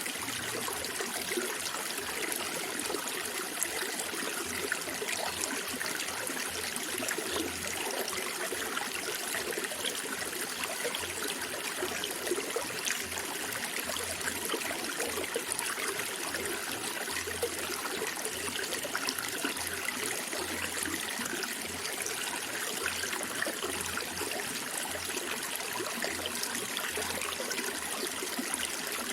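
Running water flowing and trickling steadily, an even unbroken rush.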